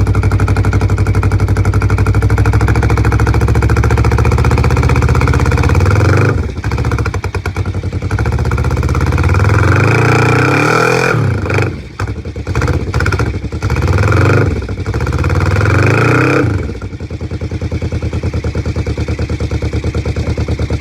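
1993 Kawasaki Ninja 500's parallel-twin engine running cold just after a cold start. It idles steadily, then is revved several times, each rev rising and falling, and settles back to idle near the end.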